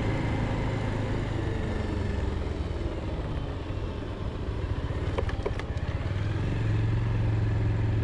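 Bajaj Pulsar motorcycle engine running under way, with road and wind noise. The engine eases off slightly in the middle, then pulls louder and steadier toward the end. A few sharp clicks come about five seconds in.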